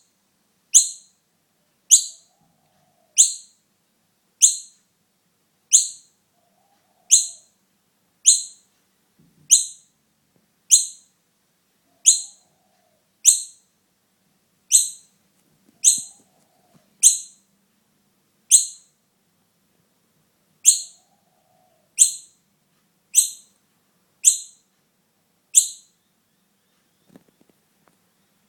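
Young noisy miner calling: short, high, piercing peeps repeated about once a second, each dropping in pitch, with a pause of a few seconds near the end.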